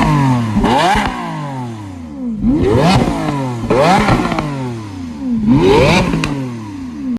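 A Lamborghini's engine revved hard four times, each rev climbing sharply in pitch and falling back, with crackling pops from the exhaust.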